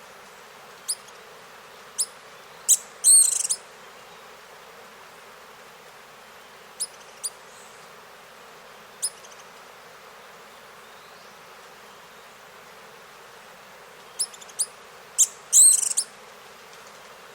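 Small birds calling: scattered short, sharp, high chirps and two brief louder chirping phrases, over a steady background hiss.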